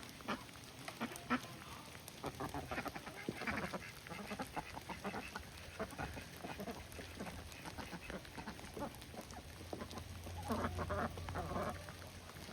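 Ducks quacking in scattered short calls, with bursts of calling about three seconds in and again around ten to twelve seconds.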